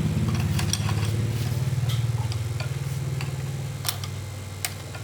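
Engine of a restored old farm vehicle running with a rapid, even beat, gradually dying away and stopping near the end, with light metallic ticks and clicks over it.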